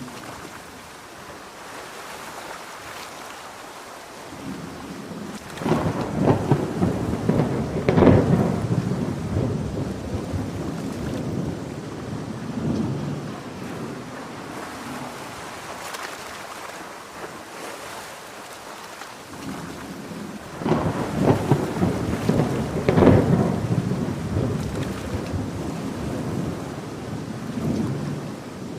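Steady heavy rain, with two rolls of thunder about fifteen seconds apart. Each roll starts with a sudden crackle and rumbles away over several seconds.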